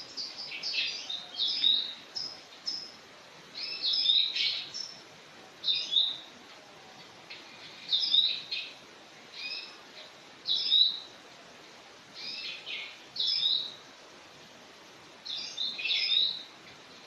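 Bird chirping in short, high groups of notes, repeated every second or two with brief pauses between.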